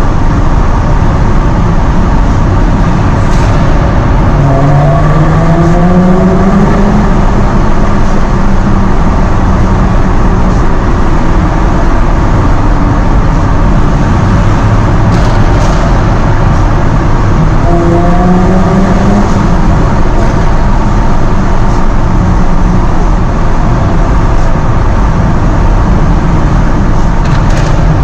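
Jaguar F-Type sports car's engine and exhaust while driving, under a loud, steady rush. The engine note climbs as the car accelerates, once about five seconds in and again about two-thirds of the way through.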